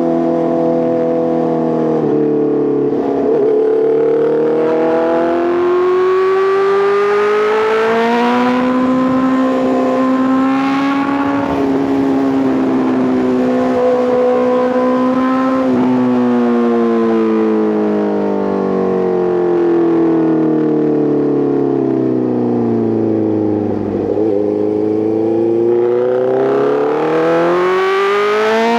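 Honda CBR650R's inline-four running through an Arrow Pro Race titanium full exhaust while riding. The engine note climbs under acceleration for the first several seconds, holds steady through the middle, drops away in a long deceleration past the halfway point, then climbs again near the end.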